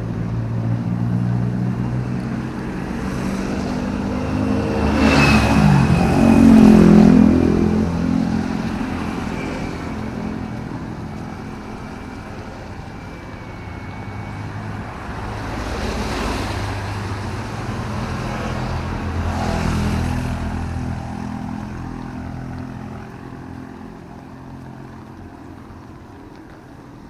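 Motor vehicles passing on a wet city road in drizzle. One passes close about six seconds in, its engine pitch dropping as it goes by. Two more pass near the middle, then the traffic fades.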